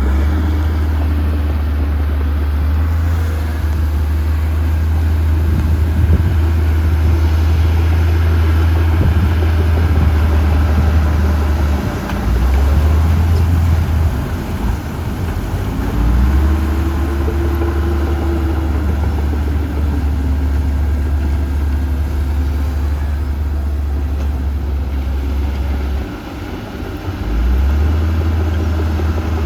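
Heavy diesel earthmoving machinery running steadily with a deep drone. Partway through, the engine note rises and falls once, and it dips briefly twice.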